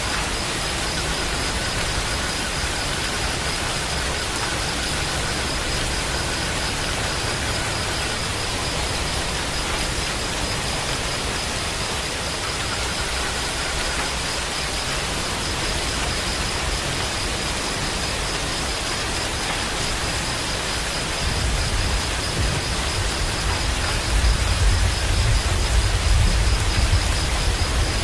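Steady rain falling, an even hiss. About three-quarters of the way in, a low rumble swells up underneath it.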